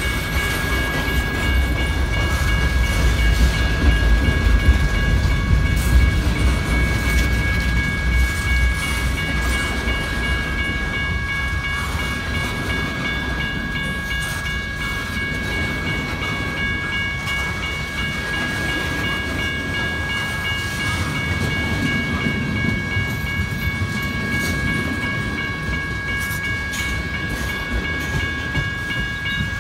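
Freight train of tank cars rolling steadily past: a low rumble of wheels on the rails with scattered clicks from the rail joints, under a steady high-pitched whine.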